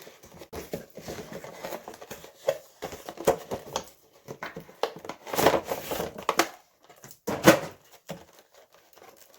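Action-figure packaging being opened and handled: irregular crinkling and crackling of plastic and cardboard, loudest a little past the middle with a sharp crackle about seven and a half seconds in, then quieter near the end.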